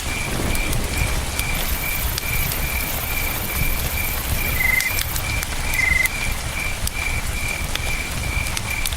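Campfire crackling with scattered sharp pops over a steady rush of river water, while a cricket chirps in an even pulse a little over twice a second. Two short, slightly lower insect trills come about halfway through.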